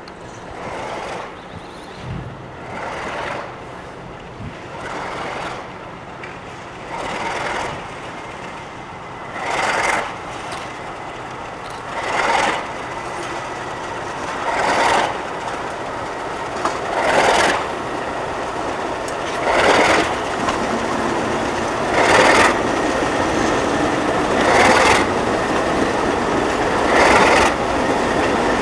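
Diesel train hauled by Alco locomotives drawing closer and growing steadily louder, with a rhythmic swish about every two and a half seconds.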